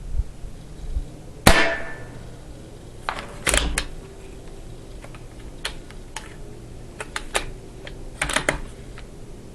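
A single sharp shot from a CCM M40 bolt-action paintball rifle about a second and a half in, the loudest sound. It is followed by several groups of short mechanical clicks and clacks from the rifle being handled, over a low wind rumble.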